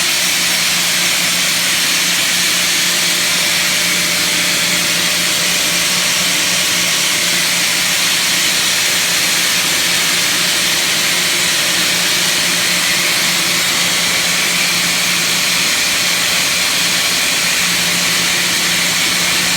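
Sullair 10B-25 25 hp rotary screw air compressor running steadily: an even, loud rushing hiss with a steady low hum beneath it.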